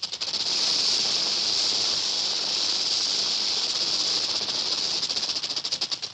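Rattlesnake shaking its rattle: a continuous dry, rapid buzz that becomes a stuttering, uneven rattle near the end.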